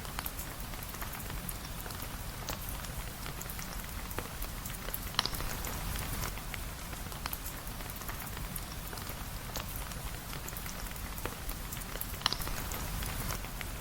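Steady rain falling, a constant hiss with many light clicks of drops. Two sharper pops stand out, about five seconds in and again near the end, over a low rumble underneath.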